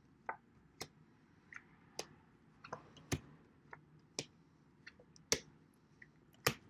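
About a dozen short, sharp clicks and taps at irregular intervals, roughly one to two a second, with quiet between them.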